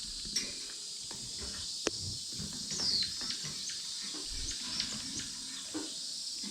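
Small caged finches (Gouldian finches, society finches and canaries) chirping briefly while feeding, with short high calls, one falling chirp about three seconds in, and scattered sharp clicks of pecking at seed. A few soft low thuds sound among them.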